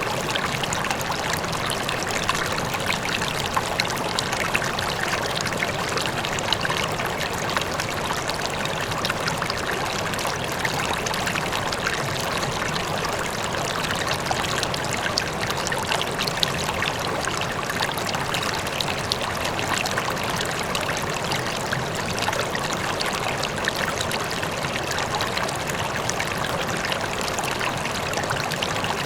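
A river flowing steadily, water rushing and trickling over stones, with a waterfall running faintly in the distance.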